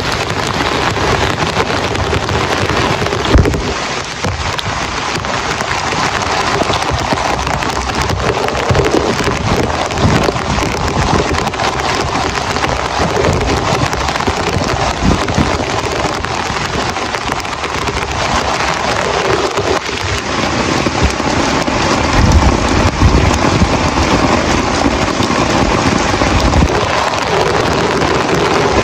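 Heavy rain pounding steadily on a surface, with a sharp knock about three seconds in and a deeper low rumble swelling in the second half.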